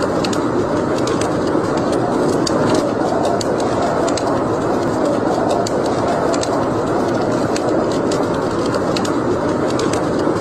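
Wood fire crackling in a fireplace: a steady rushing hiss with many scattered sharp pops.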